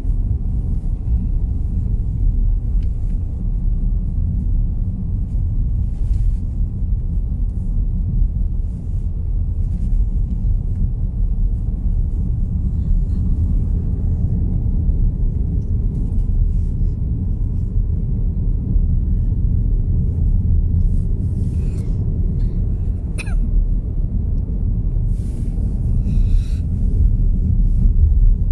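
A car driving on the road, heard from inside: a steady low rumble of tyres and engine, with a few faint clicks near the end.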